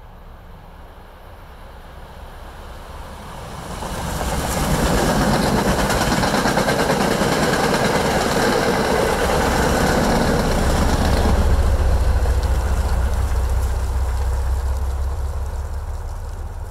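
MBTA diesel commuter rail train passing close by. The rushing noise of wheels on rails rises sharply about four seconds in, a deep engine drone takes over in the second half, and the sound fades near the end as the train moves away.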